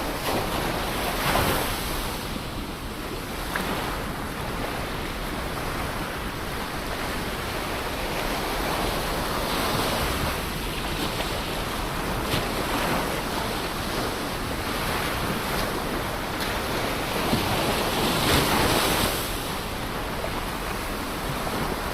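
Ocean surf: a continuous wash of waves, swelling as waves break about a second in, again around ten seconds in, and most loudly near the end.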